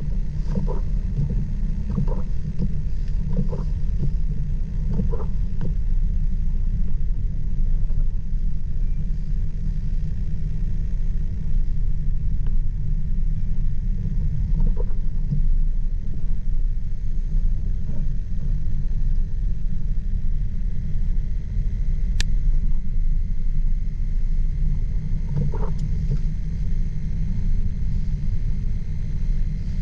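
A car driving on a winter road with a steady low rumble. Faint short knocks come every second or so in the first few seconds and now and then after. A single sharp click comes about two-thirds through.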